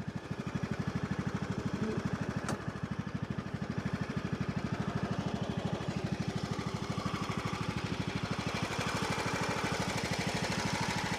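John Deere LA105 riding mower's engine running steadily, an even, rapid beat of firing strokes with no misses: the engine now runs smoothly.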